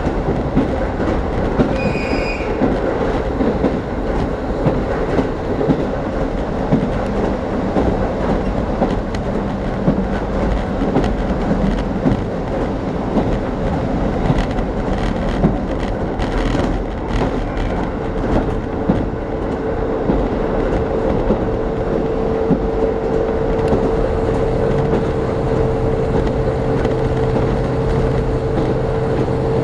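Diesel railcar running at speed, heard from inside the carriage: a continuous rumble of wheels and running gear, with the wheels clicking over rail joints every second or two. A steady hum comes in a little past halfway.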